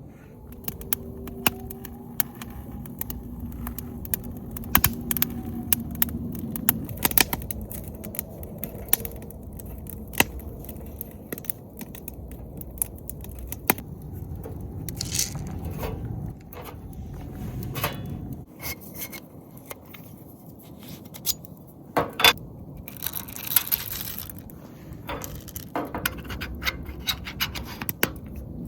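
Irregular light clinks, clicks and scrapes of hard objects being handled, with a denser scraping run a little after the middle.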